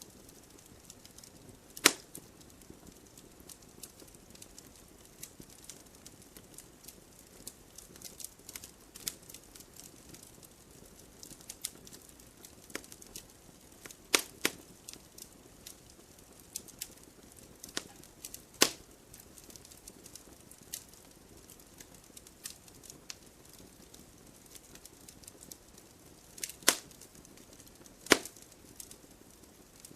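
Logs burning in a fireplace: a faint steady crackle broken by sharp pops. The loudest pops come about two seconds in, twice around the middle, and twice near the end.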